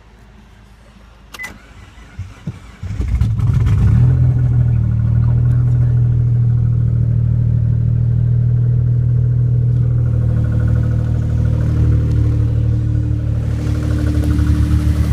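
1995 Mitsubishi 3000GT non-turbo V6 engine being started: a few clicks, then it fires about three seconds in and settles into a loud, steady idle. The engine is loud because of an exhaust leak.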